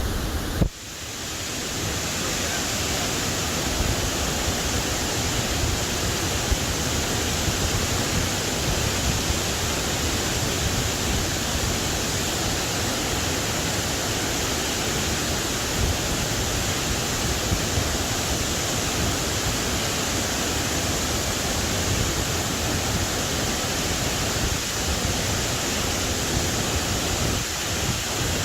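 Fast-flowing creek water rushing over rocks: a steady, even rush that dips briefly about a second in and then holds.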